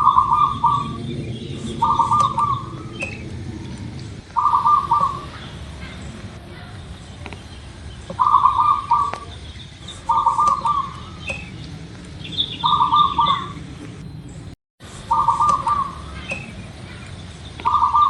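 Zebra dove (local perkutut) cooing: a short rolling coo repeated about every two seconds, eight times, with small birds chirping faintly higher up. The sound cuts out completely for a moment near the end.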